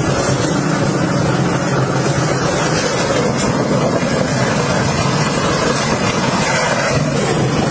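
An engine running steadily, with a loud rushing noise over it.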